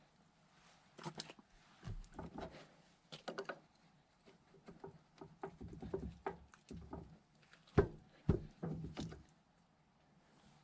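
Scattered knocks, clinks and thumps of hand tools and metal parts being handled while working on a backhoe's stabilizer hydraulic line fittings, with two heavier thumps about 8 seconds in.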